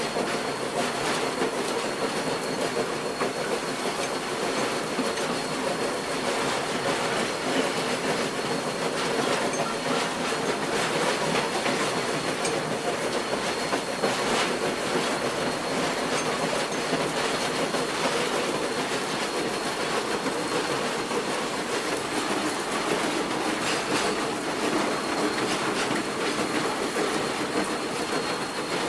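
Railroad cars rolling steadily along the track, the wheels clicking over the rail joints, with a thin steady high whine above the rumble.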